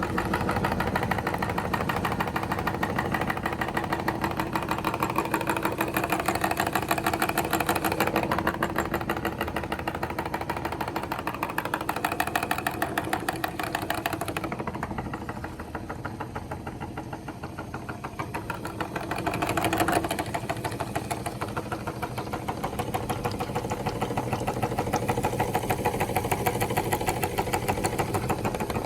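Meat grinder's motor running steadily, grinding bubble gum.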